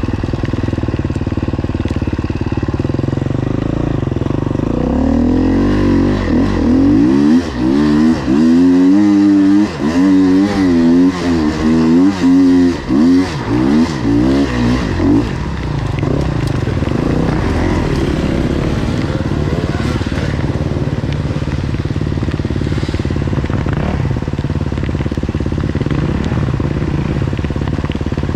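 Enduro dirt bike engine under way off-road. It runs steadily at first; from about five seconds in, it revs up and down over and over with sharp throttle blips for some ten seconds, then settles back to steadier running.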